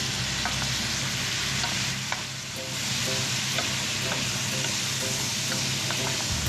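Food sizzling in a hot buttered pan, with scattered taps and scrapes of a utensil as it is stirred.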